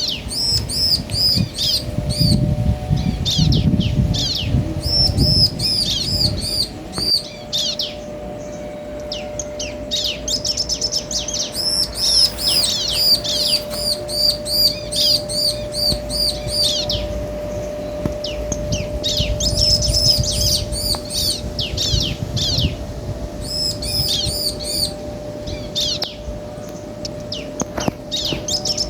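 Bar-winged prinias, male and female, calling back and forth in repeated bursts of quick, high, chirping notes with short gaps between them. A faint steady hum runs underneath.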